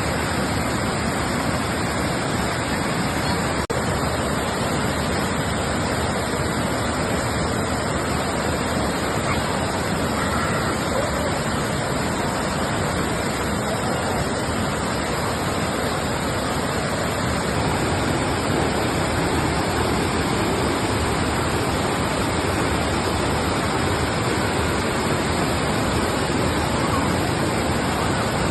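Waterfall rushing, a dense, steady noise of falling water, with a momentary dropout about four seconds in.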